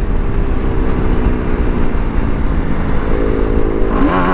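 BMW G310RR's single-cylinder engine running steadily while cruising, heard from the rider's seat over a low rush of wind and road noise. Near the end a wavering higher tone comes in over it.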